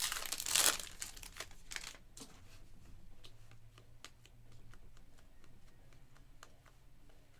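Foil trading-card pack wrapper being torn open and crinkled, loudest in the first second, followed by a run of faint light clicks.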